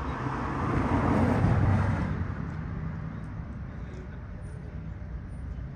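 A car passing by on the road, its tyre and engine noise swelling about a second in and fading away again, over a low steady background hum.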